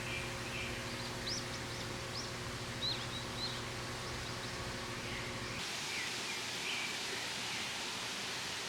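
Small birds chirping in short high calls over a steady rushing hiss of flowing water. A low steady hum underneath stops abruptly about two-thirds of the way through.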